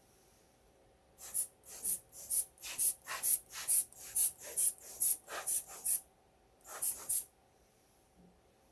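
About a dozen short hissing puffs of air in quick succession, with a short gap before the last two: air blown into the opened HP 3458A multimeter's chassis to shift a loose part that rattles inside.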